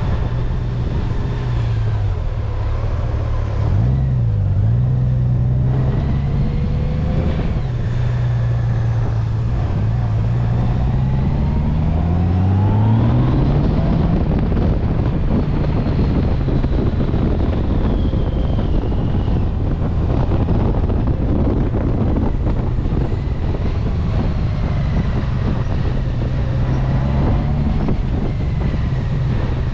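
Honda Gold Wing Tour's flat-six engine running at low road speed in traffic. Its note dips twice as the bike slows, then rises as it accelerates about ten to thirteen seconds in, after which wind and road noise build before the steady engine note returns near the end.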